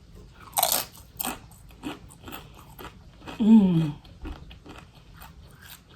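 Close-up chewing and biting of crunchy food: a loud crunch about half a second in, then irregular small crunches. A short vocal sound that falls in pitch comes about halfway through.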